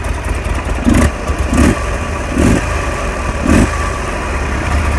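2009 Buell XB12SS Lightning's 1200cc fuel-injected V-twin idling, with four short throttle blips in the first three and a half seconds.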